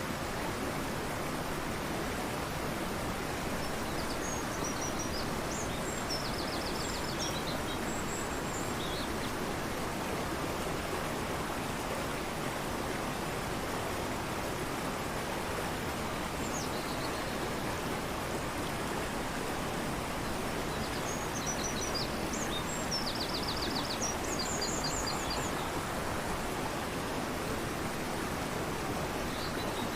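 Fast-flowing river rushing steadily. A songbird sings high, trilled phrases twice, a few seconds in and again past the middle, with a short call near the end.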